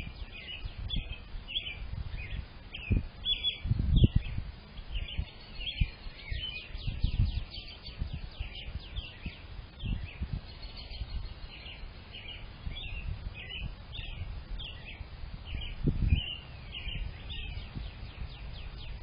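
Several small songbirds chirping and singing continuously in rapid, high notes. A few low rumbles break in, the loudest about four seconds in and again near seven and sixteen seconds.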